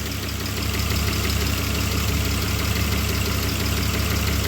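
BMW M50B20 2.0-litre straight-six idling steadily when warm, with a slight rise in level about half a second in. This engine has been cutting out intermittently at idle, which the owner puts down to air leaking in at the intake air pipe.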